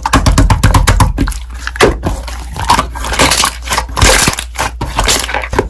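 Slime being pressed, squished and stretched by hand, making dense irregular sticky clicks and crackling pops, with a thicker stretch of crackling about three seconds in.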